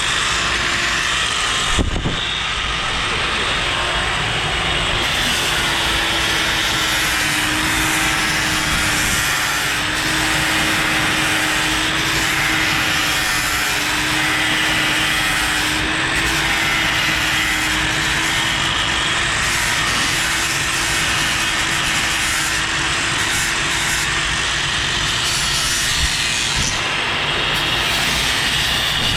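A power tool running steadily with a continuous grinding rub, its motor holding a steady tone that wavers slightly.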